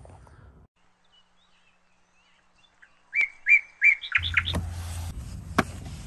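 A songbird chirping: three short, loud, even notes about three seconds in, then a quick run of rising and falling notes. After them comes a steady low rumble and hiss of outdoor background.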